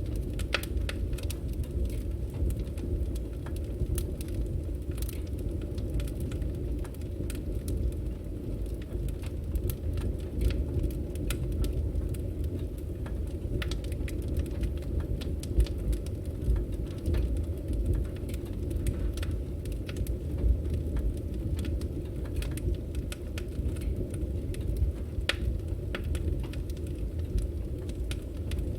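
Firewood burning in an open fire: a steady low rumble of flames with frequent sharp crackles and pops from the wood.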